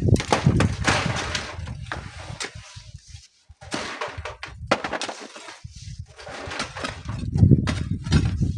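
Gusts of strong wind buffeting the microphone, loudest at the start and again near the end. Between them come bursts of hissing noise with a few sharp knocks, and a brief lull a little past the middle.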